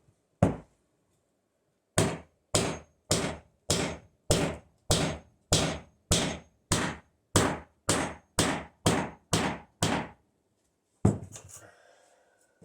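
Hammer blows banging a piece down into the layout table: one strike, then a steady run of about fifteen sharp blows, roughly two a second, and a last blow with a short rattle after it.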